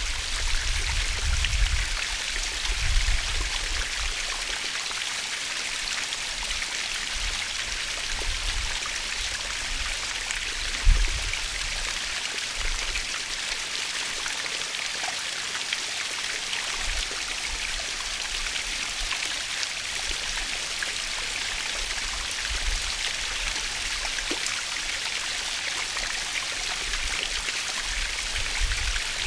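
Waterfall: a steady, even rush of falling water with a hissing, splashing character, broken now and then by brief low rumbles.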